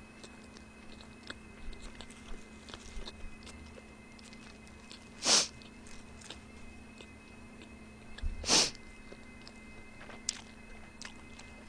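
Quiet chewing and small mouth clicks of someone eating a hamburger. There are two short, louder rushes of noise about three seconds apart, over a faint steady hum.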